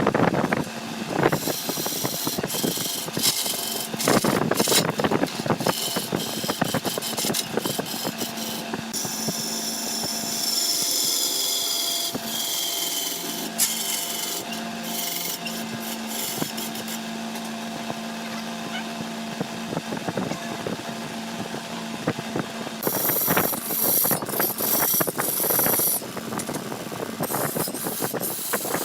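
Wood lathe running with a steady motor hum while a cutting tool scrapes and shaves the spinning wood, with many sharp clicks and rasping bursts.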